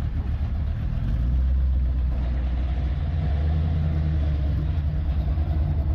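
A car engine running with a steady low rumble, growing a little stronger a second or two in.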